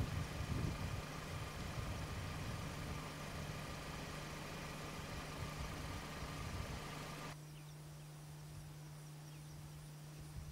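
A vehicle engine idling with a steady low hum. The lighter noise above it drops away sharply about seven seconds in, leaving the hum on its own.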